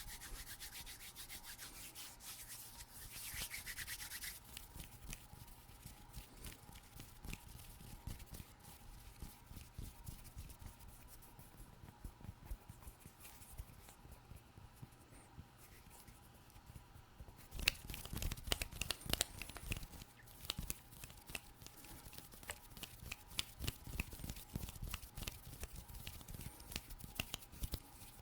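Close-miked hand sounds: skin rubbing against skin for the first few seconds, then a long run of quick, light finger taps and clicks. The taps grow denser and louder about two-thirds of the way in.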